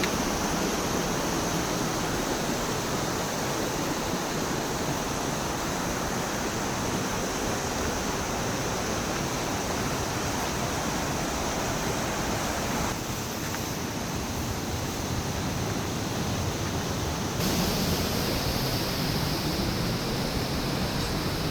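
The Thur waterfalls rushing, a steady, loud noise of falling water. The sound changes abruptly about 13 seconds in and again about 17 seconds in.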